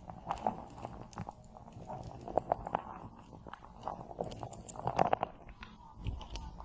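A cooling gel patch being handled and wrapped: irregular crinkles and sticky crackles, with a louder cluster about halfway through and another a little later.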